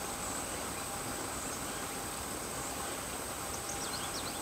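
Insects shrilling in one steady, high-pitched tone over quiet outdoor background noise, with a few faint short chirps near the end.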